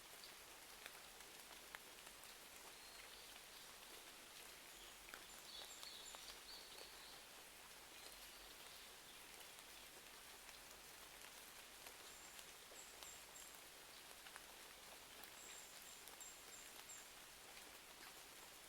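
Faint, steady rain-and-fire ambience: an even patter of rain with scattered small crackling clicks from a fireplace. A few short runs of quick high-pitched notes come through about a third of the way in and again after the middle.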